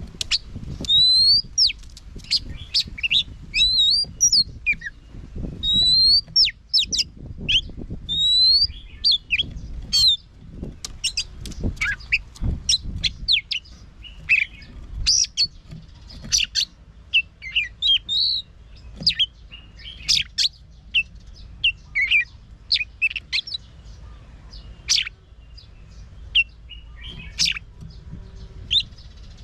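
Oriental magpie-robin singing a long, varied song of clear whistles and sharp chirps. A rising whistled phrase recurs several times in the first third.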